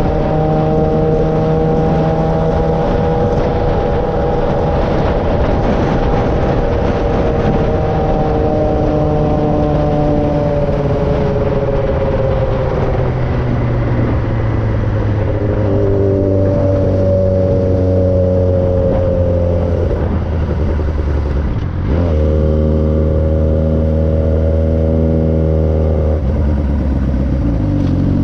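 2009 Suzuki GSX-R 600's inline-four engine through an M4 exhaust, running under way. Its pitch drifts with the throttle and steps several times, with a brief drop about two-thirds of the way through as at a gear change.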